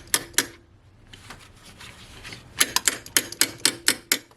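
Hand ratchet wrench clicking while working the alternator's terminal nut. A few sharp metallic clicks come at the start, then a quick run of about ten clicks in the last second and a half.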